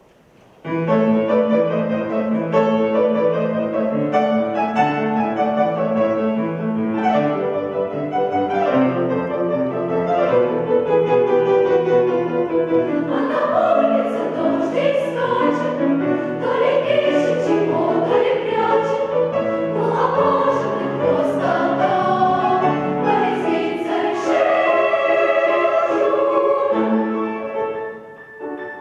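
A choir singing a song with piano accompaniment; the music starts suddenly about half a second in.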